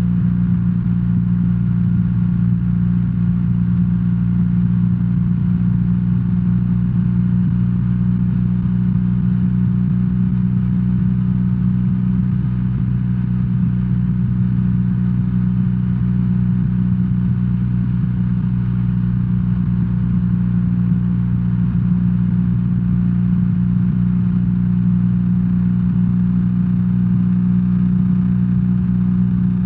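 BMW R1300R motorcycle's boxer twin engine running steadily at an even engine speed, with no revving up or down.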